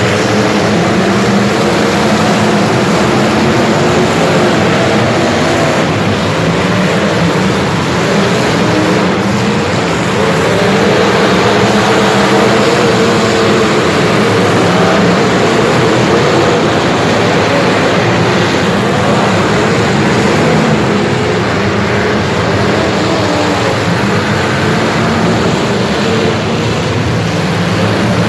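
A motor vehicle's engine running steadily under way, its pitch wavering slightly, under a loud rushing noise.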